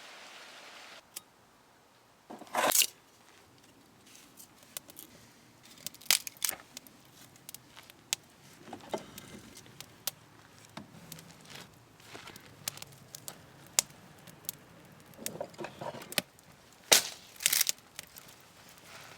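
Campfire crackling: irregular sharp snaps and pops, with a few louder cracks, one about two and a half seconds in and another near the end.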